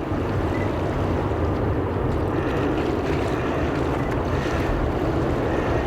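Steady distant roar of an approaching Airbus A320-232 airliner on final approach, its IAE V2500 turbofans running at approach power, with a faint high whine from the engines.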